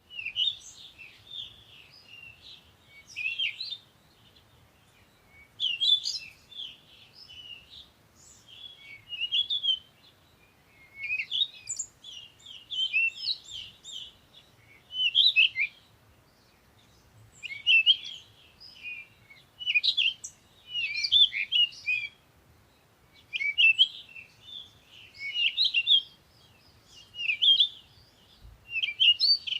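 Songbird singing in short phrases of quick, high twittering chirps, a new phrase every two to three seconds with brief pauses between.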